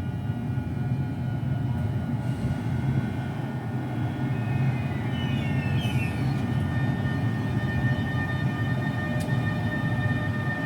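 A train running at a station platform: a steady low rumble with a steady high-pitched whine over it. A brief chirping squeal comes about halfway through.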